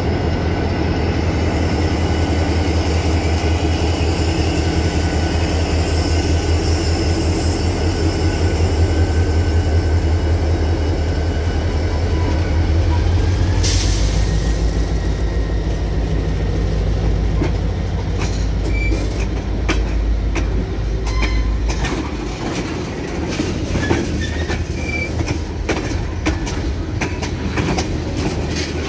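CN diesel freight locomotive passing close by with a steady low engine throb. At about 14 seconds it is past, and a string of tank cars follows, their wheels clicking over the rail joints with short, high wheel squeals now and then.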